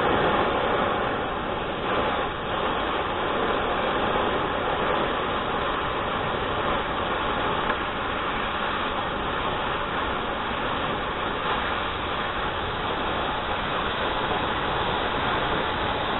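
A metal-cutting tool running steadily as it cuts a piece off a steel three-point hitch blade: an even, unbroken hissing noise.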